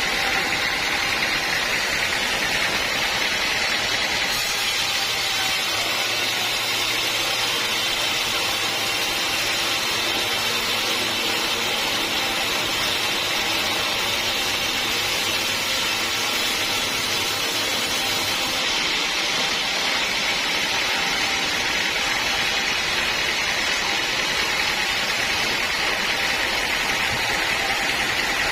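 Sawmill saw and its motor running steadily while sawing a teak log, a continuous high mechanical whine and hiss. The hiss grows brighter from about four seconds in until about eighteen seconds, then eases back.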